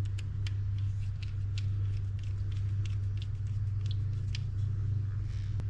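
Small, irregular clicks and taps of metal reel parts and tools being handled on a workbench, over a steady low hum.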